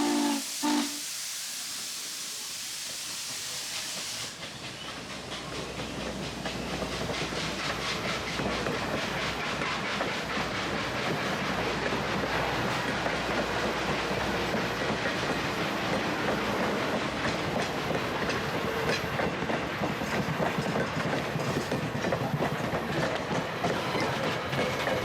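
Steam locomotive whistle cutting off just after the start, then steam hissing for a few seconds. After about four seconds a train rolls steadily past, its wheels clicking over the rail joints.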